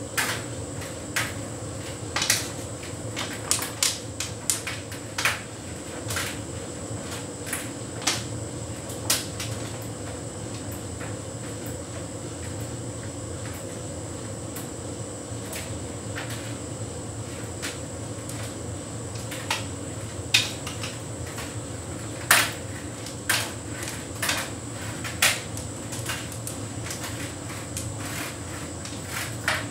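Hotpoint heat pump tumble dryer running on a synthetics cycle. A steady machine hum carries on throughout, with sharp irregular clicks and knocks as the load tumbles against the drum, in clusters early on and again past the middle.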